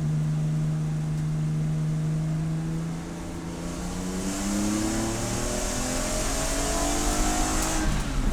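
Race car engine holding a steady note for about three seconds, then revving up under acceleration for about five seconds before the pitch drops suddenly near the end with an upshift.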